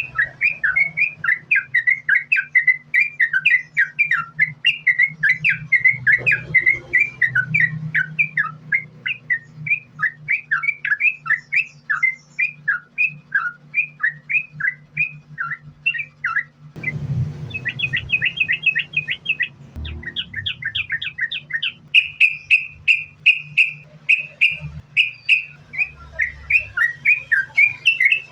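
Yellow-vented bulbul (cucak trucuk) singing nonstop in a rapid string of short chirping notes, several a second. About two-thirds of the way through, the phrases shift to higher, quicker notes. A steady low hum runs underneath.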